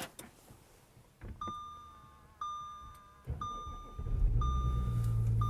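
Dashboard warning chime of a 2016 Audi TDI ringing about once a second. About three seconds in, the starter cranks with a thump, and within a second the diesel engine catches on its cold start and settles into a steady idle under the chime.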